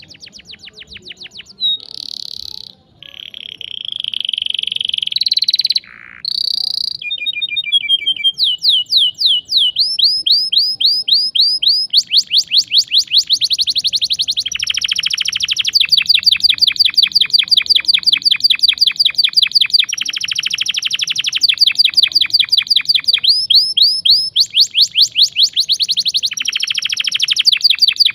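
Domestic canary singing a long song of sharp, rapid rolls and trills. A few held whistled notes and slides come in the first seconds, then long runs of fast repeated notes.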